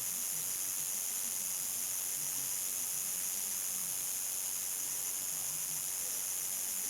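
Crickets calling in a steady, high-pitched chorus at nightfall, a continuous shrill hiss without breaks.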